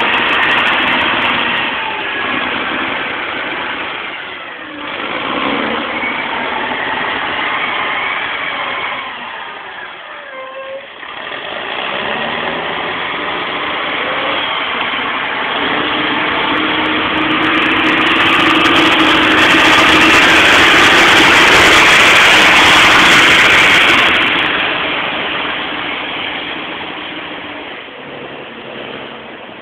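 Fiat Panda 4x4 engine revving up and down as the car is drifted on snow, fading as it moves away and swelling again as it comes back. It is loudest and hardest-revved about two-thirds of the way through, with a hiss over the engine, then dies down toward the end.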